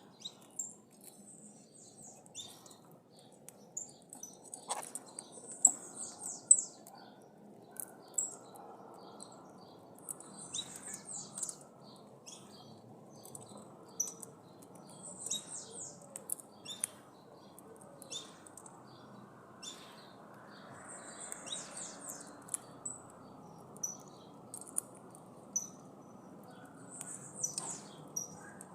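Birds chirping: short, high-pitched calls coming in clusters every second or two, over a steady low background hiss, with a few sharper clicks a few seconds in.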